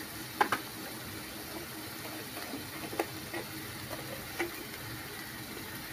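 Onion-tomato masala sizzling faintly in a steel kadai on a gas stove, with a few light sharp clicks scattered through: two close together about half a second in, one at three seconds, and one near four and a half seconds.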